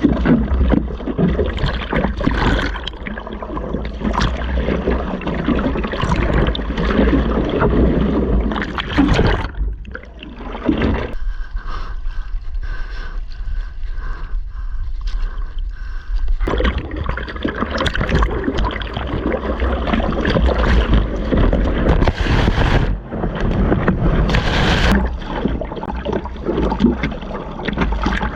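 Wind buffeting a wearable action camera's microphone over the splashing and rushing of ocean surf, with water sloshing and breaking around the surfer. The sound goes muffled and quieter for several seconds about halfway through, then the wind and splashing return.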